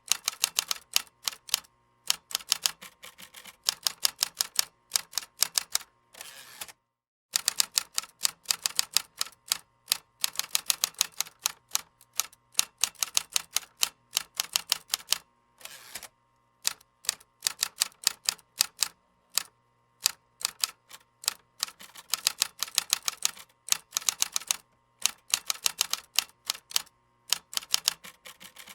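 Computer keyboard typing: rapid runs of key clicks in bursts of a few seconds, broken by short pauses.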